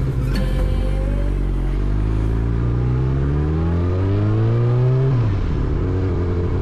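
Yamaha R6 motorcycle's inline-four engine pulling up through the revs under acceleration for about three seconds, its pitch climbing steadily. About five seconds in the revs drop sharply, and the engine runs on steadily at a lower pitch.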